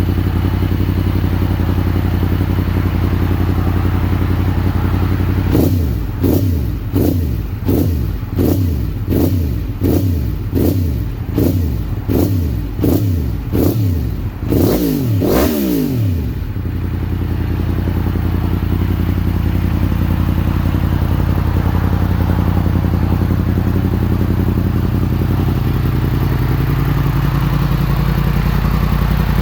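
2017 Yamaha FZ-10's crossplane inline-four, fitted with a full Graves titanium exhaust, idling during warm-up. About five seconds in it is blipped rapidly and repeatedly, about one and a half revs a second for some ten seconds, then it settles back to a steady idle.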